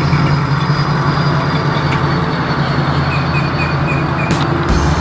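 A vehicle engine running steadily and loudly, with a strong low hum and no clear revving.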